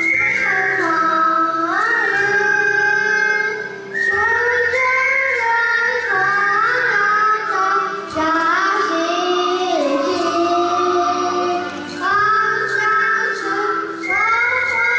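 A group of children singing a song in unison over a musical accompaniment.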